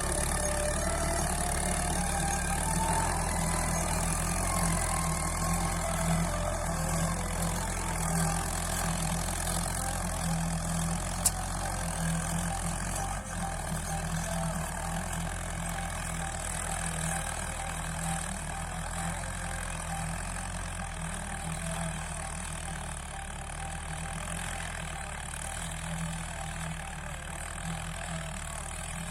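Mahindra Arjun 555 DI tractor's diesel engine running steadily with an even low throb, slowly getting quieter over the second half. A single sharp click about 11 seconds in.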